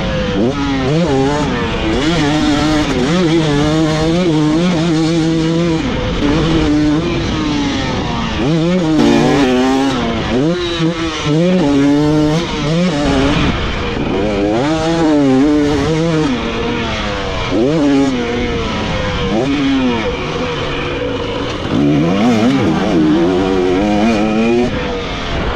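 Motocross dirt bike engine under hard riding, its pitch repeatedly climbing as it revs out, then dropping back as the throttle is shut off or the gears change, over a steady rush of wind noise.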